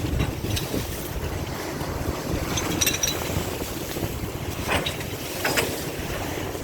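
Strong wind buffeting the microphone on a ship's deck: a steady rough rumble with a few brief knocks.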